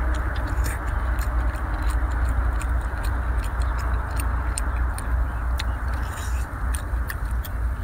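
Wet chewing, sucking and lip-smacking on whole braised octopus tentacles, many short sharp clicks and smacks, over a steady low rumble.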